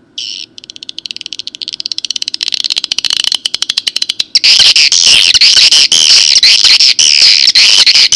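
Recorded swiftlet calls played through a swiftlet-house call amplifier and loudspeaker: rapid, dense chirping that starts with a short burst, then grows steadily louder and is very loud from about four seconds in.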